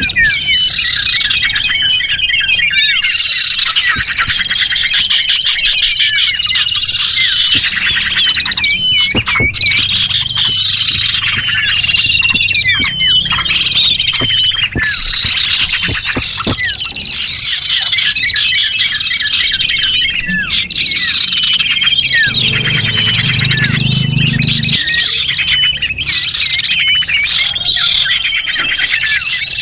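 Small birds chirping and calling densely, with high, quick, repeated notes and fast trills overlapping one another: a bird-lure recording of small songbird calls.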